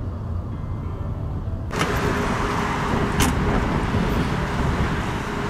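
Road vehicle running: a steady low rumble that turns into a louder rushing road noise about a second and a half in, with a single sharp click a little later.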